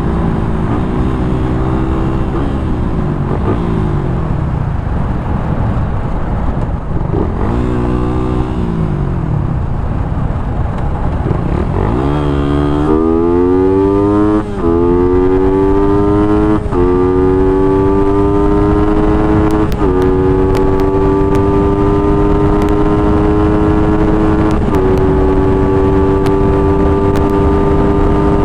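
Suzuki Raider 150's single-cylinder four-stroke engine through its stock muffler, with wind rushing past the helmet microphone. It runs steadily with a couple of brief dips in revs, then about halfway through accelerates hard, revs climbing and dropping back at each of several upshifts, the later gears climbing more slowly toward top speed.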